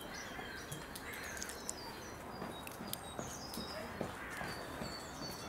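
Small birds chirping in short, high notes, some falling in pitch, over a faint steady outdoor hiss, with a few faint clicks.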